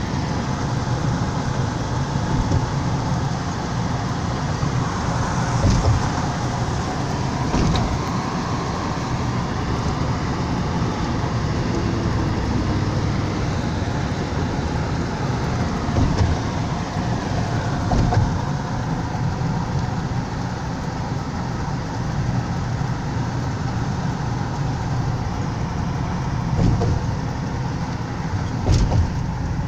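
Steady rumble of a car driving, heard from inside the cabin: engine and tyre noise on the road, with a few brief knocks, about four times.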